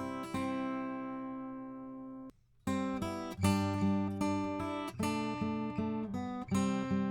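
Acoustic guitar strumming chords, played back through a Warm Audio EQP-WA tube equalizer: a chord rings out and fades, a short break of near silence comes about two and a half seconds in, and then steady strumming starts again with the equalizer set to cut the highs.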